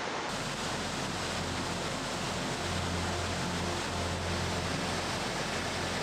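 Waterfall rushing steadily: an even wash of falling water with a low rumble underneath.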